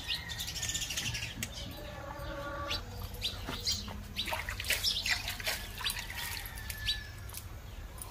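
Small birds chirping: many short, high calls scattered throughout.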